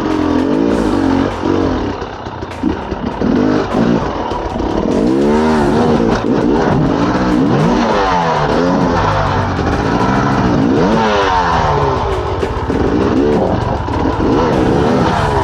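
Enduro dirt bike engine revving in repeated surges, its pitch rising and falling every second or so, as the rider works the throttle to climb up a rock step.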